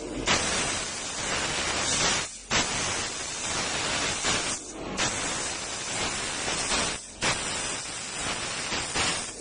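CNC laser cutting machine giving a steady, dense hiss from the cut and its gas jet. The hiss dips briefly about every two and a half seconds.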